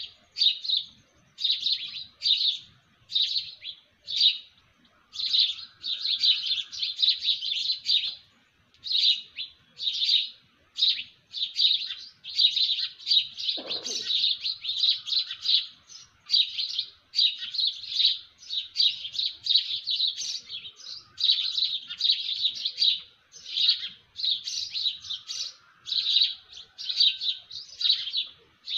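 Small birds chirping in quick runs of high chirps that come in bursts with short pauses between them. About halfway through, a brief falling sound cuts across the chirping.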